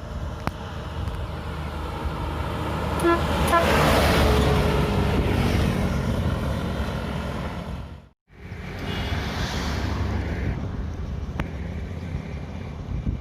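A heavy vehicle passing close by on the road, its engine and tyre noise swelling to a peak about four seconds in, with a horn giving a few short notes just before the peak. The sound drops out for a moment just after eight seconds, then road traffic noise carries on.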